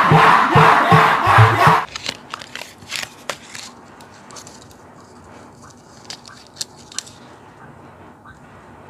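A loud burst of voice and crowd noise that cuts off suddenly about two seconds in. Then clear hard-plastic action-figure effect parts click and rattle against each other as they are handled, in scattered sharp ticks.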